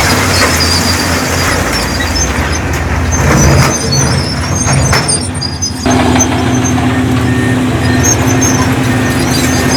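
Heavy diesel construction machinery running steadily, with engine hum under a rough noise. About six seconds in the sound briefly drops, then switches abruptly to a new steady engine note.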